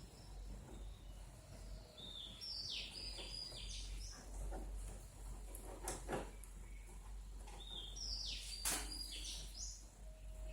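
A bird singing two short, alike phrases of high chirps, about three seconds in and again near the end, over a steady low hum, with two sharp clicks between them.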